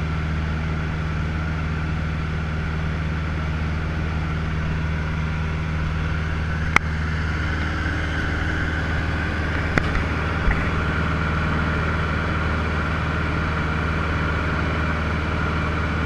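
Cessna 150L's four-cylinder Continental O-200 engine and propeller running at a steady drone, with a sharp click about seven seconds in and two more around ten seconds in.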